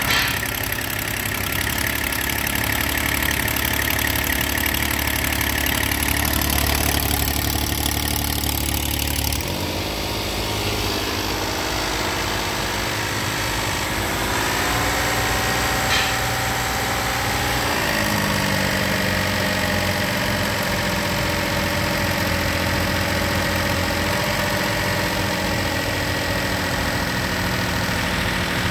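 2017 Hyundai Santa Fe engine idling steadily under the open hood during a running test of the used engine. The engine note changes about ten seconds in and shifts again between about 14 and 18 seconds in, with a single brief click partway through.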